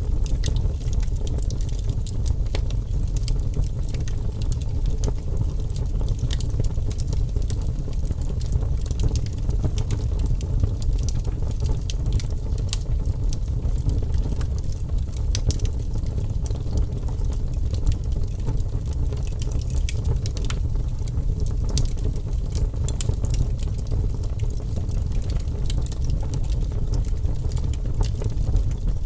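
Wood fire burning in a fireplace: a steady low rumble of the flames with many small crackles and pops scattered throughout.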